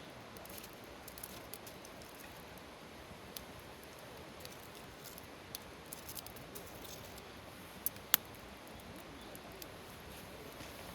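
Campfire wood burning, crackling with scattered small pops and two sharper cracks close together about eight seconds in.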